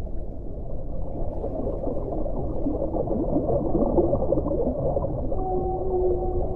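Underwater ocean ambience: a dense, muffled wash of water noise. About five seconds in, a steady tonal call is held for about a second.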